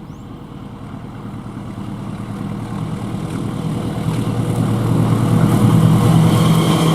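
Diesel locomotive engine running with a steady low drone that grows steadily louder as the train approaches.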